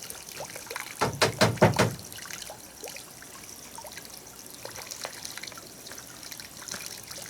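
About a second in, a quick run of about six sharp knocks within one second, over faint trickling and small scattered clicks.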